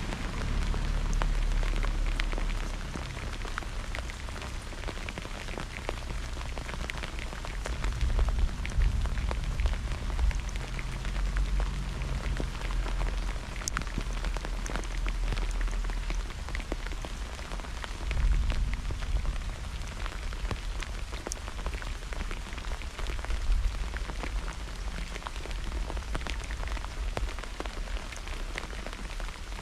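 Steady rain falling during a thunderstorm, with many sharp individual drop hits close by. Under it runs a low rumble that swells several times, about a second, eight seconds and eighteen seconds in.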